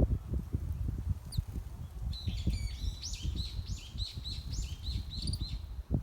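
A small songbird singing a rapid run of repeated chirping notes, about three a second, starting about two seconds in, after a single thin high call. Underneath runs a low, uneven rumble with soft knocks.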